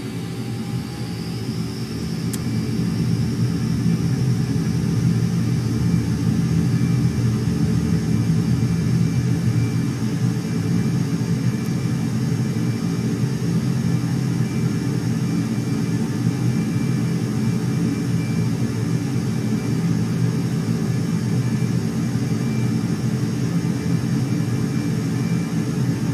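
Jet aircraft engines running with a loud, steady rumble and a high whine. The whine rises in pitch and the sound grows louder over the first few seconds, then holds steady.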